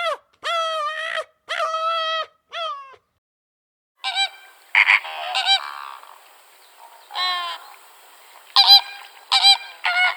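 An animal calling repeatedly in short pitched calls, four in the first three seconds. After a short gap, more calls come in over background noise.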